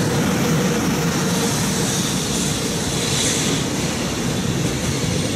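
A freight train of container wagons, hauled by an EH500 electric locomotive, rolling past at close range: a loud, steady noise of wheels running on the rails. A faint steady hum fades out about two seconds in.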